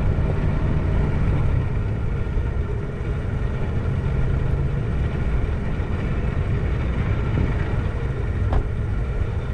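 Motor vehicle running steadily, a continuous low engine drone with road noise.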